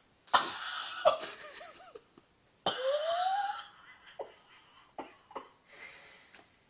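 A person laughing in loud breathy bursts, the second starting about two and a half seconds in with a rising pitch, then a few faint clicks.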